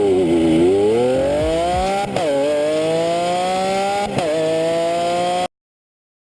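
Chevrolet Corvette's 6.2-litre V8 accelerating hard. Its pitch climbs, drops sharply at upshifts about two and four seconds in, then climbs again. The sound cuts off suddenly near the end.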